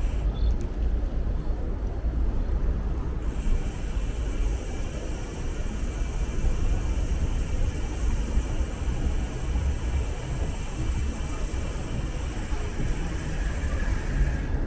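Steady city traffic noise with a heavy low rumble, heard while riding a bicycle through the streets.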